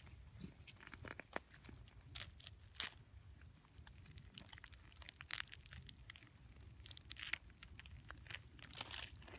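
Irregular crunching and crinkling: a scatter of sharp cracks and rustles at uneven intervals.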